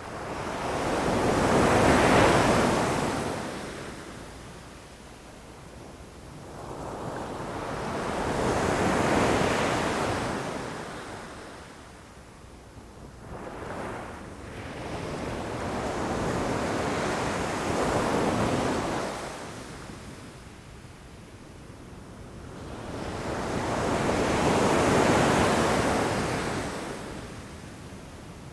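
Ocean waves crashing against rocks: four surges of rushing surf, each building and falling away, about one every seven or eight seconds.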